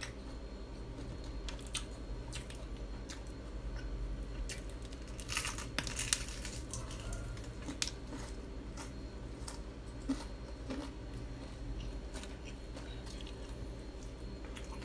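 Crispy Bonchon fried chicken being bitten and chewed close to the microphone: scattered crisp crackles, with a denser run of crunching about five to six seconds in, over a low steady hum.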